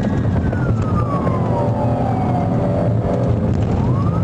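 Police car siren on a slow wail, falling from high to low over about two and a half seconds and rising again near the end, over a steady low rumble of engine and road noise.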